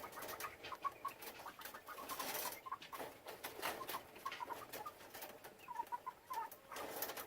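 Chickens clucking softly in short repeated notes, mixed with scattered clicks and a couple of bursts of rustling.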